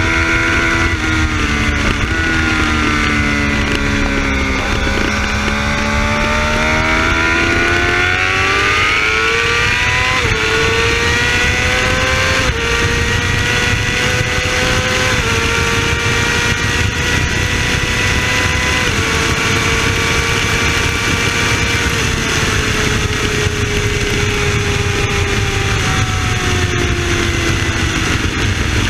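2011 Yamaha R6's 600 cc inline-four running hard at high revs. The engine note drops for the first few seconds as the bike slows, climbs steeply as it accelerates, then holds high with a few small pitch steps before easing down near the end. Heavy wind rush over the microphone runs underneath.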